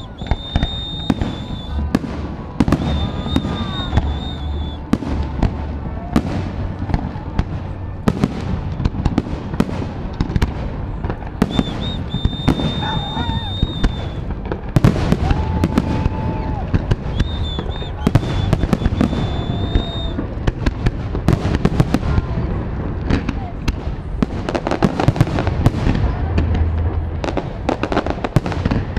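Fireworks display: a continuous barrage of bangs and crackling shell bursts, with high whistling tones now and then.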